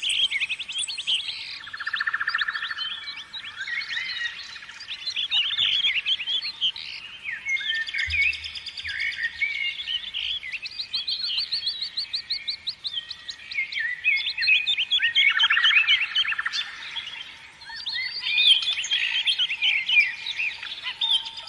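Several birds singing together: a dense mix of quick chirps, whistled notes and rapid trills, overlapping throughout.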